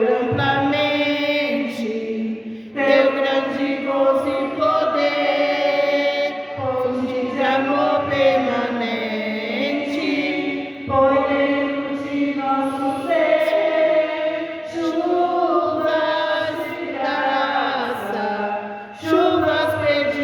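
A group of voices singing a hymn in Portuguese, with long held notes and a few brief dips between phrases.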